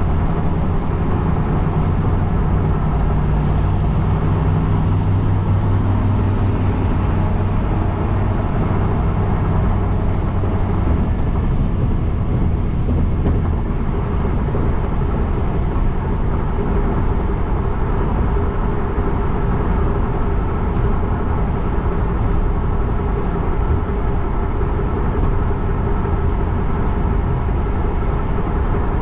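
Steady road noise from a car being driven, heard from inside. A low engine hum stands out for about the first ten seconds, then sinks back into the steady rush.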